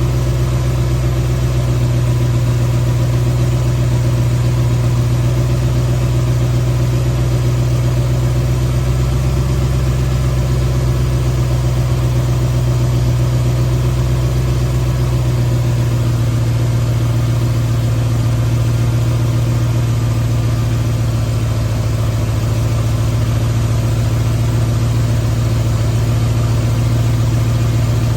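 Ford 351 Windsor V8 idling steadily during its initial tune-up after a cam break-in. Its low note shifts slightly about halfway through.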